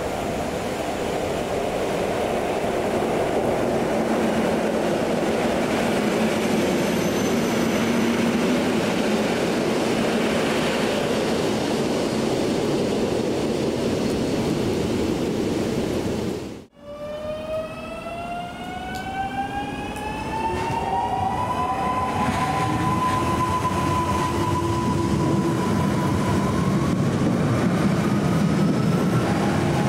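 EN57 electric multiple unit running along the platform track with a steady rumbling noise, mixed with the hiss of rain. After a sudden break, a Koleje Dolnośląskie hybrid multiple unit pulls away, its drive giving a whine of several tones that rise steadily in pitch over a low rumble.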